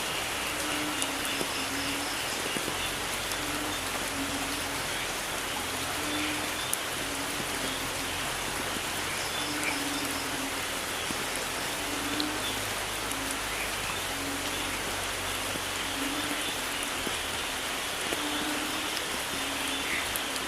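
Steady rainfall pattering on a surface. Underneath, a short low note repeats about once a second.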